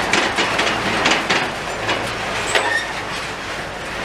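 Heavy demolition machinery at work: a steady rumble with irregular metallic clanks and knocks.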